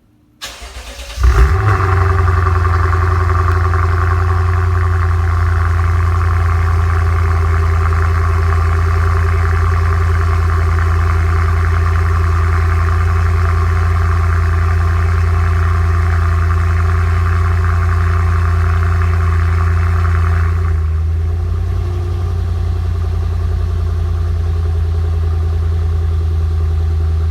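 2010 Lexus IS F's 5.0-litre V8 cold-starting through a catless, resonator-less X-pipe true dual exhaust with Thunder mufflers: a brief crank, then it catches loudly about a second in and holds a steady, loud fast idle. About twenty seconds in the idle settles slightly lower and quieter.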